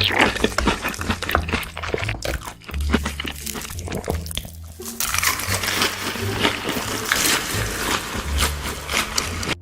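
Close-miked crunching and chewing of crisp food, in rapid irregular crunches, over background music with a low bass line.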